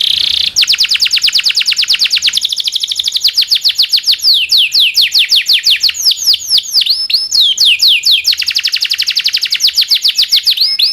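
Local canary singing a long song: a short harsh buzzy note at the start, then rapid rolls of repeated falling whistled notes, with slower phrases between the fast runs.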